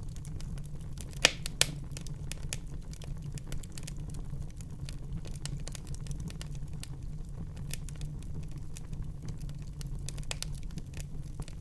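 Fire in a fireplace crackling, with irregular small pops and two louder pops just over a second in, over a steady low rumble of the flames.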